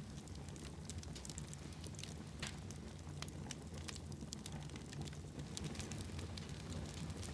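Wood fire in a fireplace crackling, with many small irregular pops over a low steady rumble of the flames.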